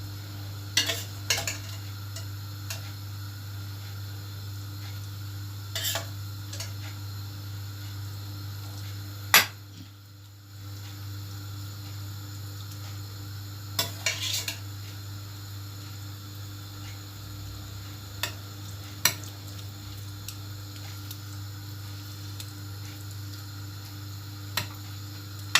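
Scattered clinks and scrapes of kitchen utensils against dishes, with one sharp knock about nine seconds in, over a steady low electrical hum.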